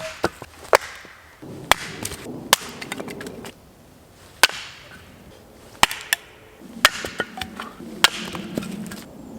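Sharp wooden knocks and cracks at irregular intervals of about a second, from pieces of dead wood being handled and knocked together, with two stretches of rustling and crunching of dry woodland litter in between.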